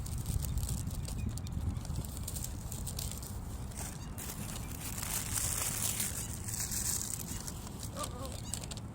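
Wind rumbling on the microphone, with light clicks and a rustle that is strongest about five to seven seconds in.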